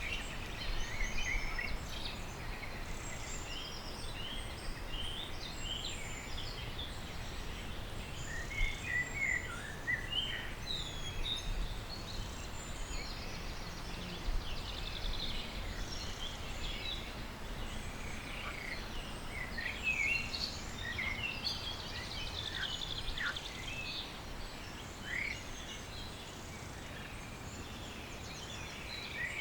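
A chorus of small birds singing and chirping, with many short overlapping calls and trills throughout, over a steady low background rumble.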